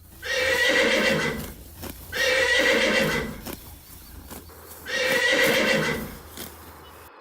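A horse neighing three times, each call about a second long and evenly spaced, with faint clopping of hooves between the calls.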